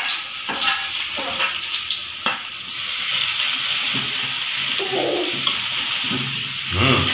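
Chopped garlic and shallots sizzling in hot oil in a wok, with a spatula scraping and stirring against the metal pan. There are a few short scrapes in the first couple of seconds, and the sizzle grows stronger about three seconds in.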